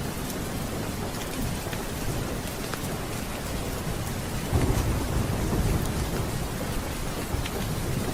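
Steady heavy rain with a low rumble of thunder rolling in about halfway through.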